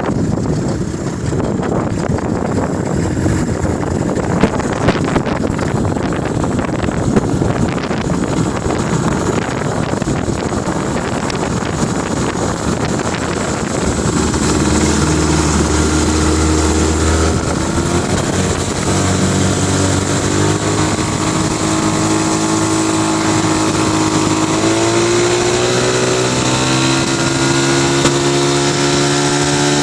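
1998 Mercury 25 HP outboard motor running, with wind buffeting the microphone at first. About halfway through the engine's tone comes through clearly and then rises in pitch in steps as the throttle is opened.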